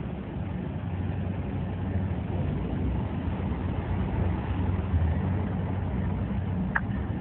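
MBTA commuter train's diesel locomotive running with a steady low drone and rumble. There is a short sharp click near the end.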